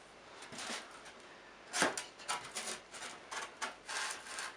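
Polystyrene foam blocks being handled and marked: a series of short rubbing and scraping strokes, the strongest about two seconds in.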